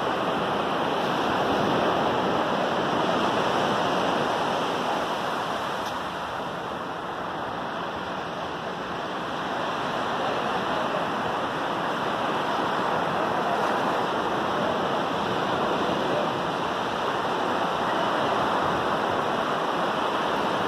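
Sea waves washing onto a sandy beach: a steady rushing surf that eases slightly about six seconds in and builds back a few seconds later.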